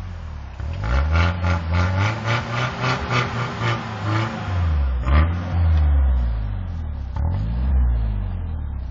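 Car engine revving hard, with a quick run of short throttle pulses followed by longer rises and falls in pitch.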